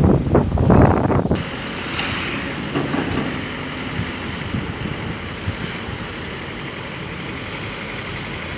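Steady running noise of heavy vehicles and machinery, with wind buffeting the microphone for about the first second, which stops abruptly.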